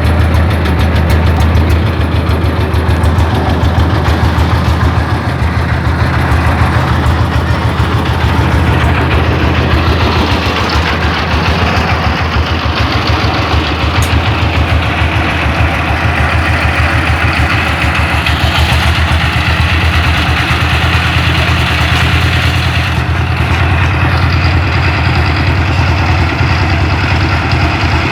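Dump truck engine idling steadily with a loud, low, even drone.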